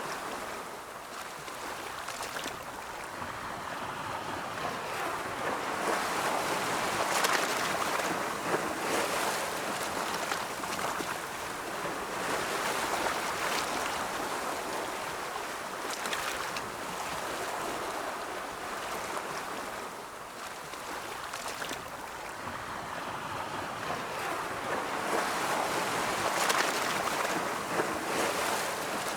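Ocean surf: waves rolling in and washing up as a steady rush of noise that swells and eases, building twice, about a quarter of the way in and again near the end.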